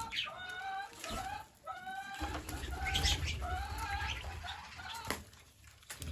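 Green parrots calling: a run of clear, short, repeated notes of about half a second each, separated by brief gaps, that stop about five seconds in.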